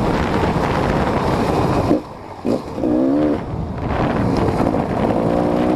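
GasGas EC 250 two-stroke dirt bike engine being ridden, its note rising and falling as the throttle is worked, under heavy wind noise on the microphone. The sound drops off briefly about two seconds in.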